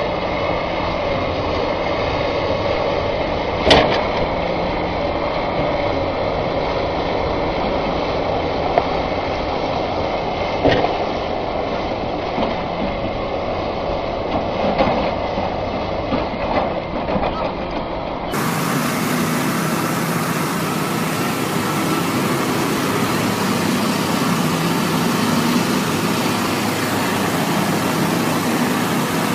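Heavy vehicle engine running steadily, with a few sharp knocks. About two-thirds of the way through, the sound changes abruptly to a rougher, hissier rumble.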